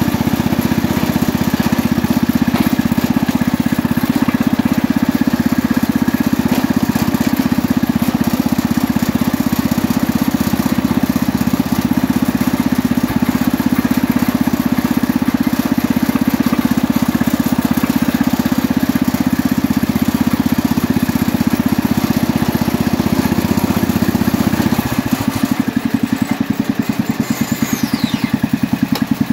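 1967 Jacobsen Chief 800 garden tractor engine running steadily. About 25 seconds in it drops to a slower idle, with the separate firing beats coming through.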